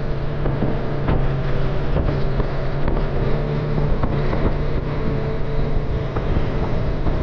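Boat motor running steadily at cruising speed, its hum under the rush of water and wind, with occasional light knocks.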